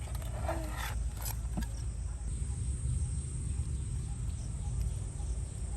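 Outdoor ambience: a steady low rumble under a thin, continuous high insect drone like crickets, with a few light clicks or knocks about a second in.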